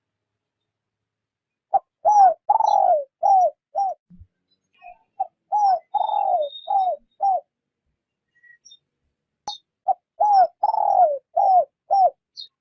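Spotted dove cooing in the gentle 'rút bổi' style of a decoy bird: three phrases a few seconds apart, each of about five notes, with a longer falling note near the start of each phrase.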